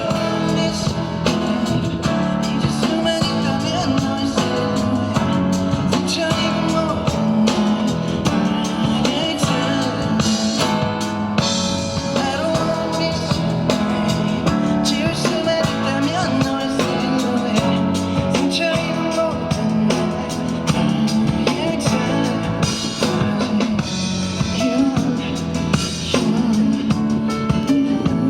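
Live band playing a rock-pop song, with drum kit and guitar prominent and a steady beat.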